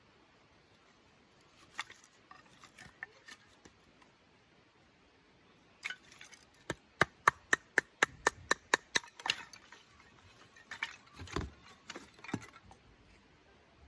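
A quick, even run of about a dozen sharp taps, about five a second, with scattered knocks and clinks before and after.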